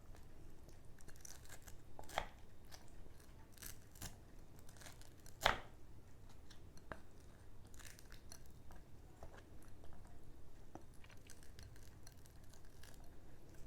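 Close-miked eating of mohinga (Burmese rice-noodle fish soup): chewing with scattered sharp clicks and crunches, the loudest about five and a half seconds in.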